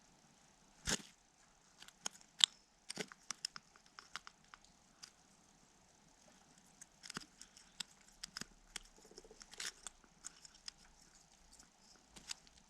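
Irregular sharp clicks, taps and crackles, loudest about a second in and again around two and a half seconds in, with faint high chirping of garden birds behind them.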